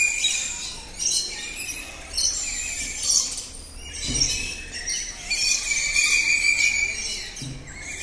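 Many aviary birds chirping and calling together: a dense high-pitched chatter that swells and fades every second or so, with a thin steady high note running under parts of it.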